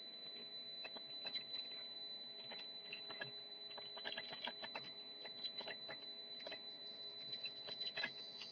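Faint, irregular clicking of a computer keyboard being typed on, over a steady high-pitched whine.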